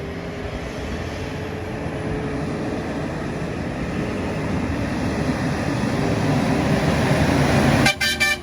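A heavy truck approaching, its engine and road noise growing steadily louder, with a long horn note sounding over it. The sound cuts off suddenly near the end as music begins.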